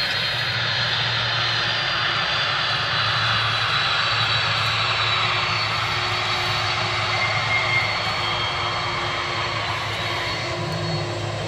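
Boeing 747's four turbofan engines running, a steady loud jet noise with a faint whine, easing off slightly near the end.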